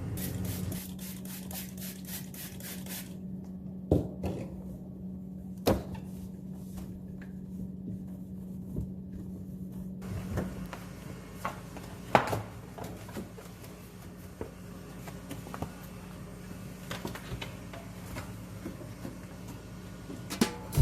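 Kitchen handling sounds: a few sharp knocks and lighter clicks of objects and containers being set down and moved, over a steady low hum that fades out about halfway through.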